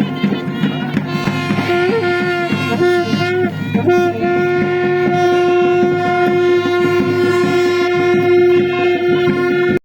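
Procession music: drums beat steadily while a wind instrument plays a melody, then holds one long steady note from about four seconds in. The sound drops out abruptly at the very end.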